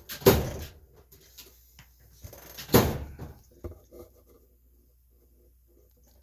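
Two loud knocks, about two and a half seconds apart, followed by a few lighter clicks from something being handled or set down, then quiet.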